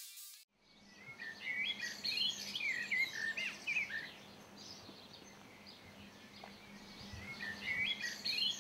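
Songbirds chirping and warbling in quick, high, gliding phrases: a bunch of calls, a quieter stretch, then another bunch near the end, over a faint steady hum.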